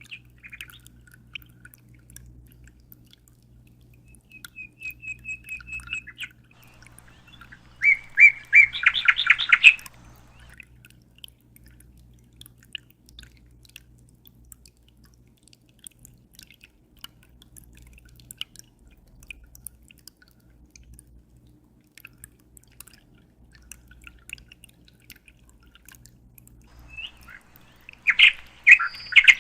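A bird chirping in bursts: a quick run of high notes about four seconds in, a louder rapid chattering trill lasting about two seconds, and another burst near the end. Under it are faint scattered drips of water and a low steady hum.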